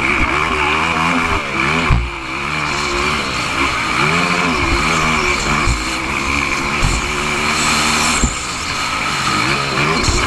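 Motocross motorcycle engine revving up and dropping back again and again as the throttle is worked, with a few heavy thumps.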